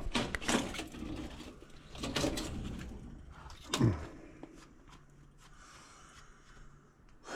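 Handling noises: rubbing and scraping with a few knocks, the loudest a sharp knock about four seconds in, then quieter.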